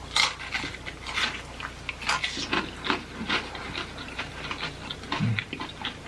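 Close-up chewing of crunchy food: irregular wet crunches and crackles from the mouth, with a short low hum about five seconds in.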